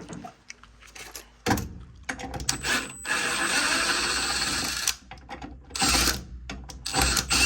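A cordless screw gun runs for about two seconds, backing screws out of a gas furnace's pressure switch. Clicks and metal rattles from handling the parts and screws come before and after it.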